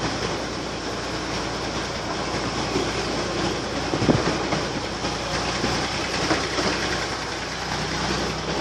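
Steady running noise of a 15-inch gauge miniature railway carriage riding along the track, with wheels clicking over the rails. A sharper knock comes about four seconds in.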